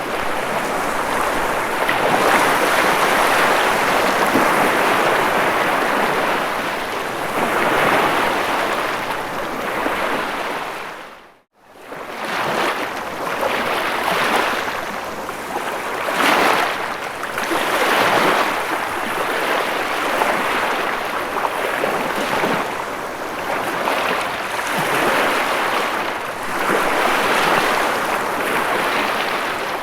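Ocean waves breaking and washing in, a steady rushing that swells and ebbs every second or two. About a third of the way through, the sound dips out suddenly for a moment and then swells back.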